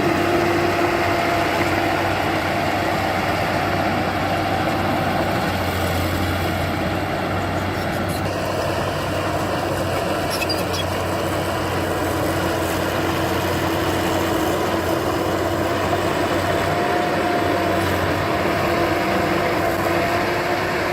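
Heavy diesel engine of earth-moving machinery running steadily at an even pitch.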